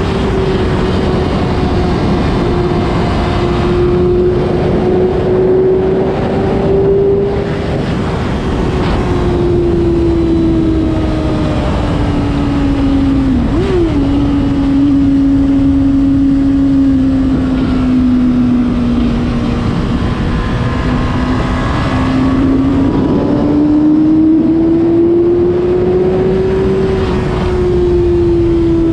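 Honda CBR600RR's inline-four engine running at high revs under way, its pitch slowly sinking and climbing with the throttle, with a quick dip and jump in pitch about halfway through. Wind rushes over the microphone underneath.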